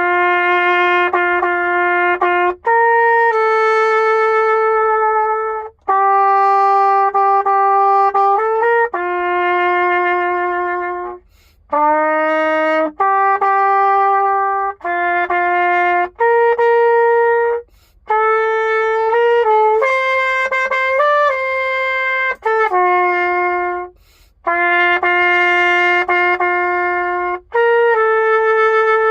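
Solo trumpet playing a slow melody in long held notes, one note at a time, in phrases of a few seconds with short breaks between them.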